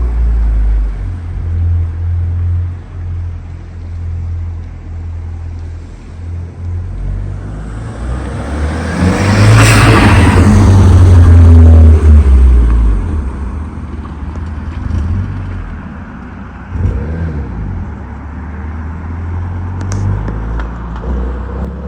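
Car running with a steady low rumble. About eight seconds in it swells into a louder rush that peaks around ten seconds and fades by about thirteen, as of a car accelerating or going past.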